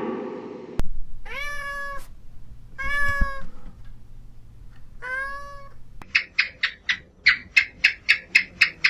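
Domestic cat meowing three times, each a drawn-out call. It is preceded by the tail of a cow's moo that cuts off just under a second in. From about six seconds on comes a rapid series of short high calls, about four a second.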